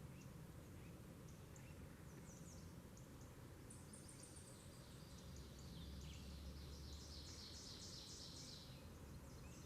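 Faint birdsong: scattered short high chirps, with a longer trilled phrase from about four to nine seconds in, over a low background rumble.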